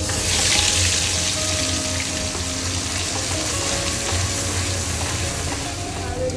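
Wet ground spice paste poured into hot oil in a steel kadai: a sharp, loud sizzle from the first instant that slowly eases off as it is stirred with a wooden spatula.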